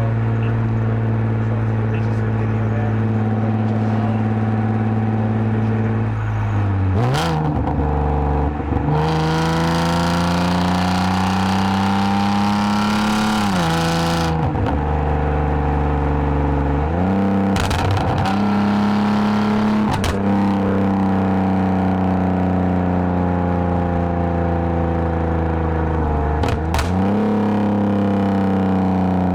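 2010 Lexus IS250 AWD's V6 engine and full aftermarket exhaust with valved mufflers. It holds steady for about seven seconds, then pulls with the pitch climbing. The pitch drops sharply at two upshifts, and later it eases off with the pitch slowly falling.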